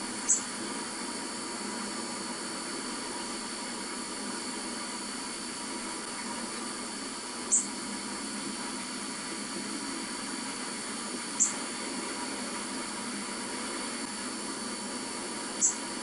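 Small bird chirping through a TV's speaker: four short, high chirps about four seconds apart, over a steady hiss.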